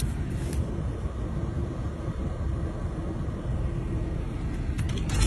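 Steady low rumble of vehicle engines and traffic with a faint steady hum, and a few light clicks near the end.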